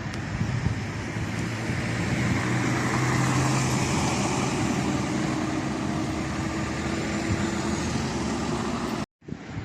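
Road traffic: a vehicle's engine hum and tyre noise swelling as it passes, over a steady outdoor hiss. The sound cuts out abruptly near the end.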